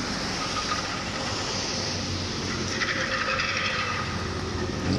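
Electric train running: a steady rumble and hiss with a faint high whine, and a rattling that joins about three seconds in.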